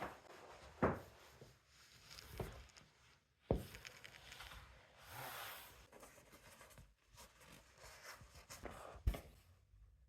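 Quiet handling sounds: a few soft knocks and clicks, the sharpest a little after three seconds in, with a brief rustle or rub between them.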